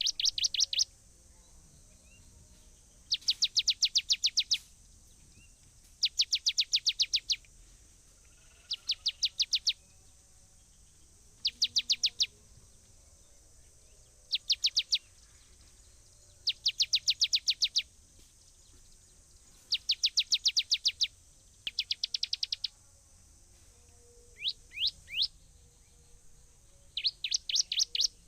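A bird singing bursts of rapid, downward-sliding whistled notes, a burst of about a second roughly every two to three seconds, over a faint steady high-pitched hiss.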